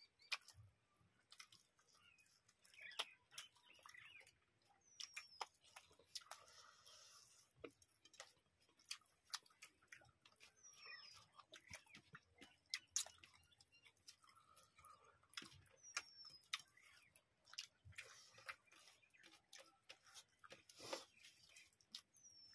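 Quiet eating sounds: rice and chicken curry chewed and eaten by hand, with irregular wet mouth clicks and smacks. A short high chirp recurs every five or six seconds in the background.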